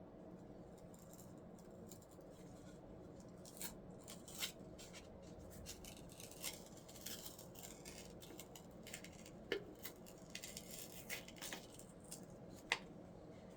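Scattered light clicks and taps of small parts being handled, with a sharper click near the end, over a faint steady hum.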